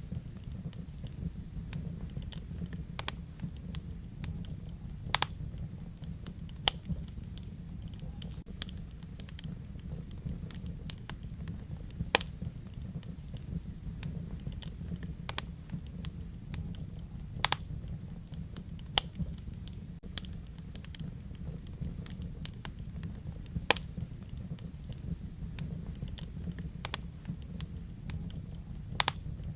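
Wood fire burning in a fireplace: a steady low rumble of flames, with sharp crackles and pops at irregular intervals.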